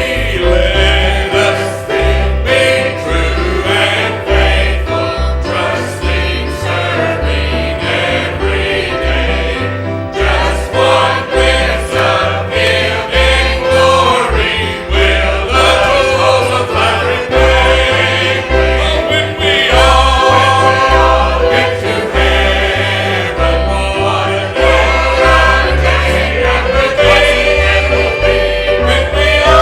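A group of voices singing a gospel hymn together, with instrumental accompaniment and a steady bass beat.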